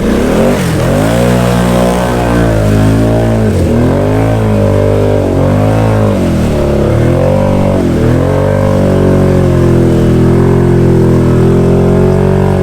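Can-Am Outlander XMR ATV's V-twin engine revving hard in deep mud, its pitch surging up and down again and again as the throttle is worked, then holding at high revs near the end.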